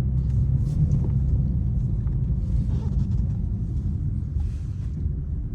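BMW M4 engine running steadily at low speed, a low rumble that eases slightly toward the end.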